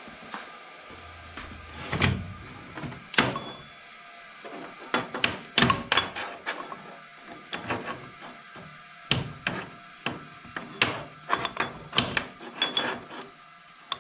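Irregular metal clinks and knocks of hand tools and steel parts being handled and fitted by hand, some ringing briefly, busiest in the second half.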